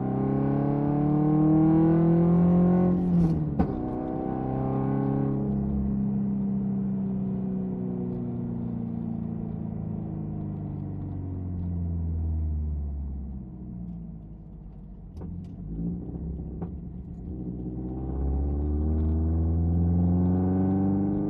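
Built Subaru STI's turbocharged flat-four, heard from inside the cabin through a titanium Tomei Expreme Ti cat-back exhaust and catless downpipe. The revs climb under acceleration, with a sharp burst at a gear change about three seconds in. The note then settles and falls as the car cruises and slows, quietens for a few seconds, and climbs again as the car pulls away near the end.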